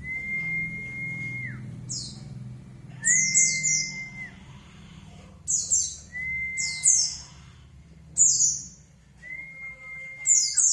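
White-eye (pleci) lure song: quick, high twittering chirp phrases alternating with long, level whistled notes, roughly every few seconds.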